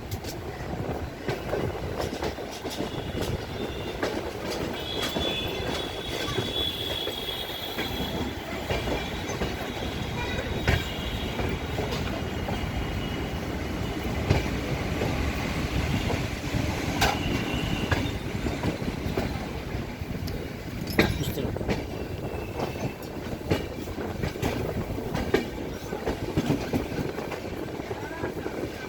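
Train running on the rails: a steady rumble with wheels clicking over rail joints, and a brief high squeal of wheels about five seconds in.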